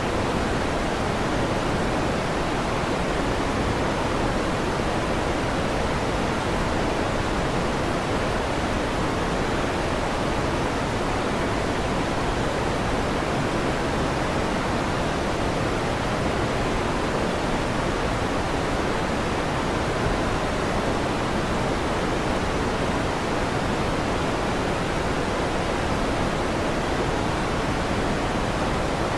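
Electric fan running, a steady even rushing noise with no change and no thunder.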